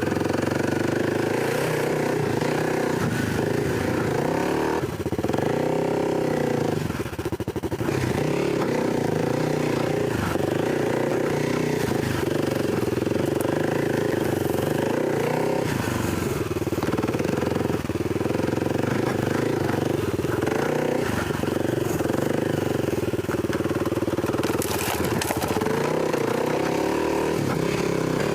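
Kawasaki KLX300's single-cylinder four-stroke engine running as the dirt bike is ridden, revs rising and falling with the throttle, with a brief drop about seven seconds in.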